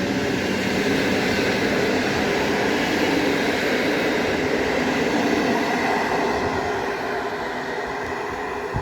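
Passenger train running past on the track, a steady rumble of wheels and rail that fades away near the end.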